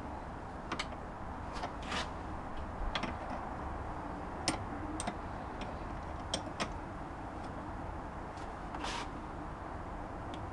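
Irregular light clicks and taps of a spanner working the lock nuts on a mobility scooter's front track rod, which had been locked solid.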